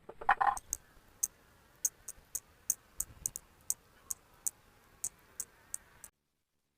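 A run of sharp, irregular clicks, about two or three a second, that stops abruptly about six seconds in.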